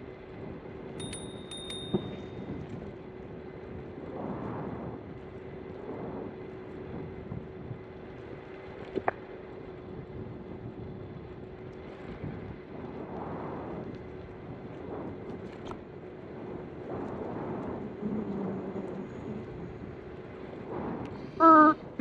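Bird electric scooter's motor whining at one steady pitch while riding, with wind and road noise swelling and fading. A brief high beep sounds about a second in.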